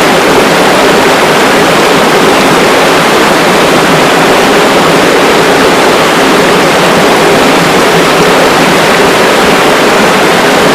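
Rushing river water: a loud, steady rush of noise that does not change.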